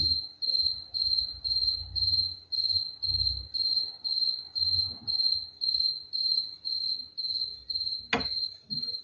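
A cricket chirping steadily: evenly spaced high-pitched chirps, about two a second. A single sharp knock near the end.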